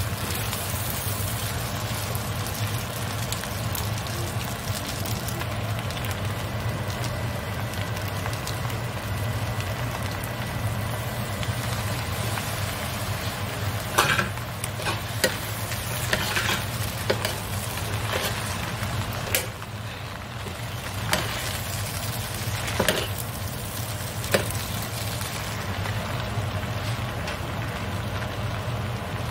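Mung bean glass noodles and cabbage sizzling as they stir-fry in a square nonstick pan, with a steady low hum underneath. From about halfway through there is a run of sharp clicks and knocks.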